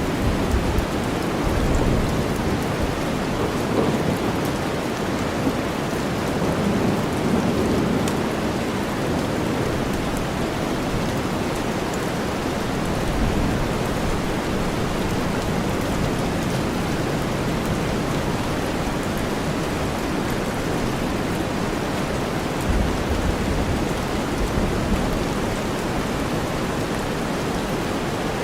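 Steady heavy rain blended with deep white noise, an even hiss with most of its weight low down, with low rumbles swelling up near the start and again a little past the middle.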